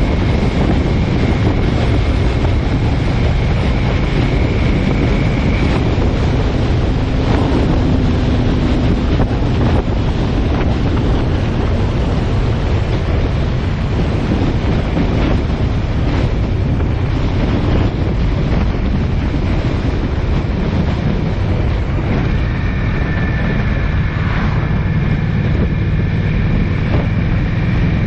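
Steady road and wind noise from a vehicle being driven, with wind buffeting the microphone; faint steady whines come and go near the start and again toward the end.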